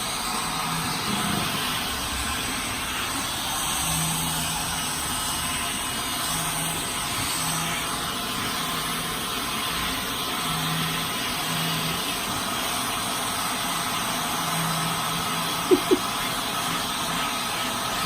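Vacuum cleaner running steadily while being drawn over a cat's fur, its low hum shifting in tone now and then. Two short, sharp, loud sounds come about two seconds before the end.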